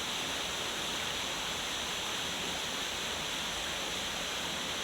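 River water rushing steadily over rocks, an even hiss with no breaks.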